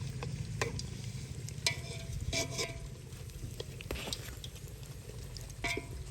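Food being stirred in a cooking pot, a utensil scraping and clinking against the metal several times over a steady low rumble.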